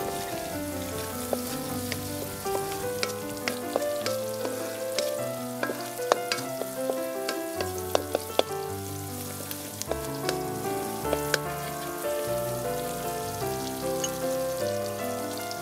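Background music with a melody over a changing bass line, laid over the sizzle of sliced onions and green onions frying in a wok. A wooden spatula stirring them gives many sharp clicks and scrapes against the metal.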